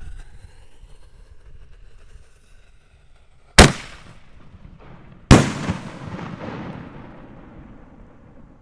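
Two loud bangs about a second and a half apart from 4-inch canister shell fireworks fired from a mortar rack, the second trailing off in a fading rumble and crackle.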